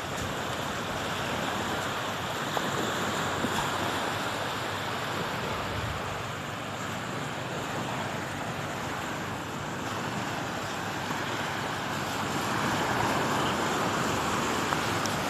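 Sea waves washing in, a steady rush of surf that swells louder twice.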